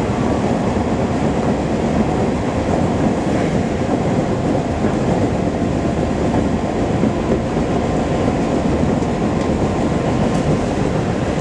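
Commuter train running at speed, heard from inside the carriage: a steady, loud rumble of wheels on rails and running gear.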